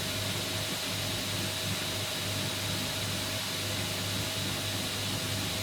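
Homemade belt grinder running steadily: an electric motor's hum with the hiss of the abrasive belt running over its rollers.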